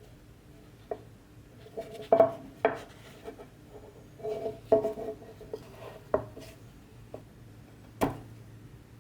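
Brass tea box being handled: a series of light metallic knocks and clinks, each with a short ring, the sharpest about two seconds in and near the end.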